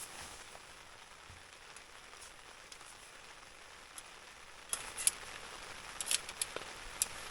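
A steady soft hiss, then a run of sharp clicks and clinks beginning about five seconds in, from camp cooking gear being handled while dinner is made.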